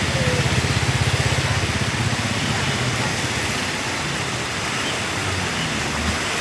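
Swollen flood river rushing, a steady loud roar of water, with a low rumble that is strongest in the first two seconds.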